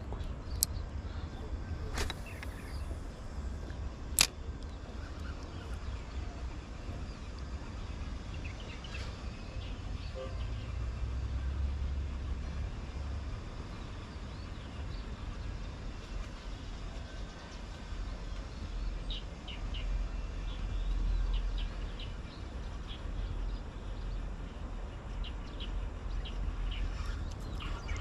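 Outdoor background noise with a steady low rumble, two sharp clicks in the first few seconds, and faint short chirps later on.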